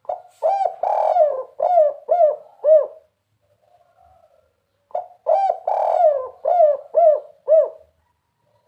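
Spotted dove (tekukur) cooing in the 'kuk 3' song type: two phrases of about six arched coos each, the second phrase starting about five seconds in.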